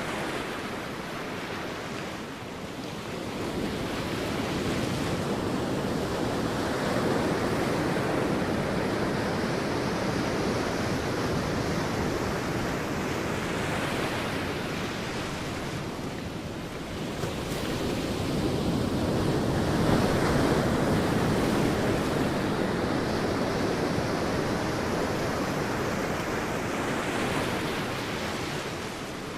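Sea waves surging onto a beach and washing back, in two long swells with a dip between them.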